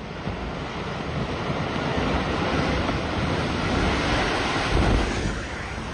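Rock slide: a steady rushing rumble of falling rock that builds through the middle, is strongest just before the end and then eases.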